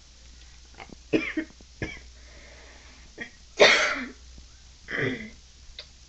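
A person coughing and clearing their throat: a few short coughs, the loudest a little past halfway.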